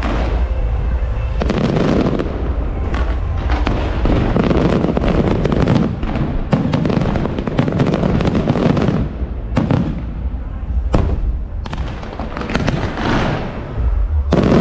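Aerial fireworks going off in rapid succession: booms and sharp bangs overlapping almost without pause, with brief lulls.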